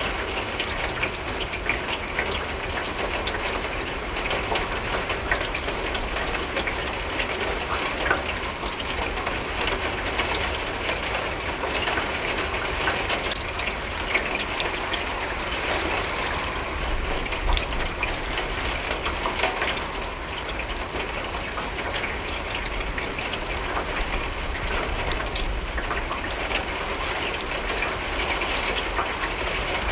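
Steady rain pattering on a window pane, a dense hiss of many small drop ticks, with a low rumble underneath.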